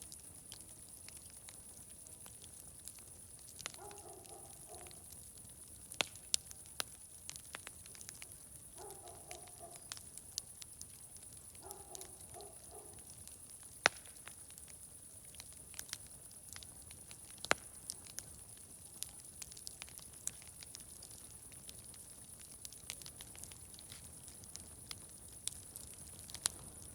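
Wood fire crackling, with irregular sharp pops over a steady high hiss. A short, pulsing animal call sounds three times in the first half, about 4, 9 and 12 seconds in.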